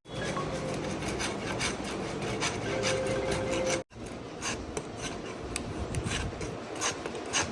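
A cricket bat's wood being filed by hand, steady back-and-forth scraping strokes about two to three a second, while the handle is shaped for fitting. The sound cuts out briefly about four seconds in.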